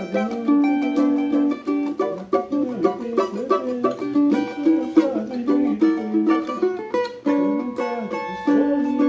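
Cavaquinho played solo, picking a quick melody line note by note with a bright, small-bodied plucked-string tone.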